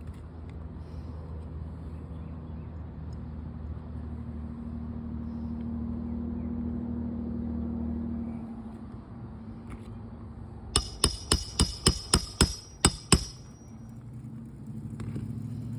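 A shingle-removal snake tool struck by a hammer under a brittle asphalt shingle: about nine quick, sharp metallic knocks with a ringing edge, coming in a burst of some two and a half seconds. Before the knocks, a steady low drone fades out about eight seconds in.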